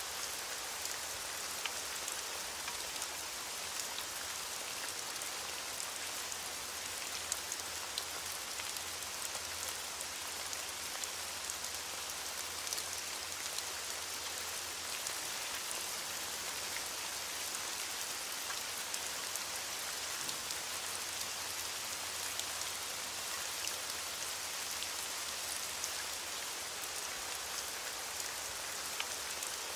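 Steady heavy rain falling, an even hiss with scattered distinct drop ticks on a surface.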